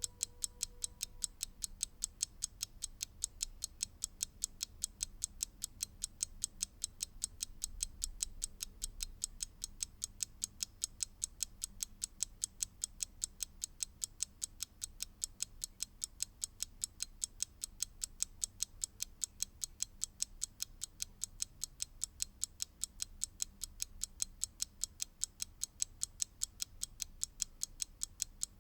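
Mechanical clock ticking: fast, sharp, perfectly even ticks with no variation in pace.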